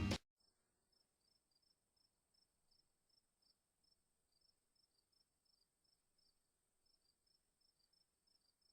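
Faint crickets chirping: short high chirps repeating about two to three times a second, over a thin steady high hiss.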